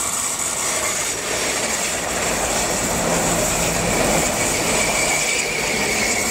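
Stadler FLIRT electric multiple unit passing close by at speed: a steady rush of wheels on rail and moving air with a faint high whine, loudest about four seconds in as the cars go past.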